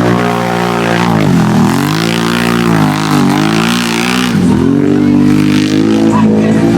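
Off-road vehicle engine running hard at full throttle, its pitch dipping sharply and climbing back three times before it holds high.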